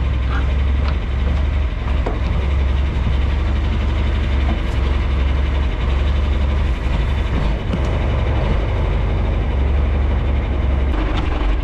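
Strong wind buffeting a microphone that has no windscreen: a loud, steady low rumble.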